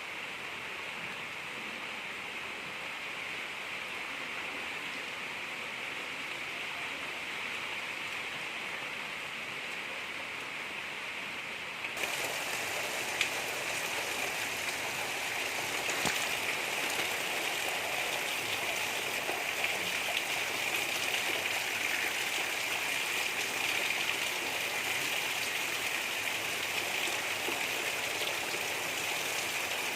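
Steady rain hiss. About twelve seconds in it abruptly becomes louder and brighter, with scattered drop taps.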